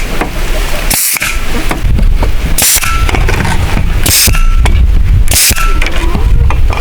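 Repeated strikes of a metal tool, one about every second and a half, each with a short metallic ring, over a steady low rumble.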